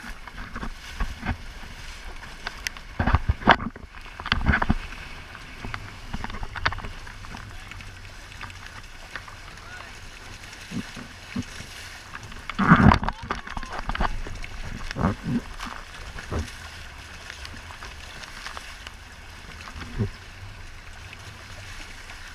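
Wind and water rushing steadily around a Hobie Cat catamaran under sail, broken by several short, louder bursts.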